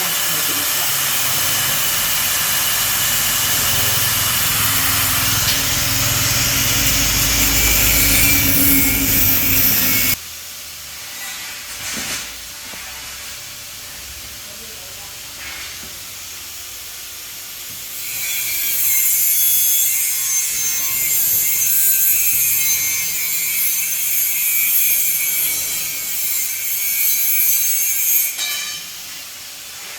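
Steel being worked with a welder or grinder, in two long spells of harsh, hissing noise. The first lasts about ten seconds and stops abruptly. After a quieter gap it starts again about eighteen seconds in and runs for another ten seconds or so.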